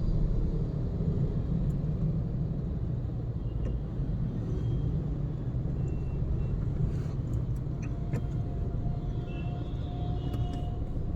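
A car driving in traffic: a steady low rumble of engine and road noise.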